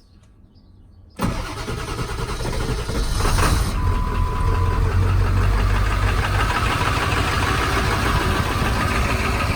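An engine starts about a second in and keeps running steadily, with a short steady beep a few seconds later.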